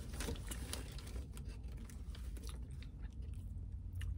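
A person chewing a mouthful of fried mozzarella stick close to the microphone, with faint soft crunches and mouth clicks scattered through it, over a low steady hum.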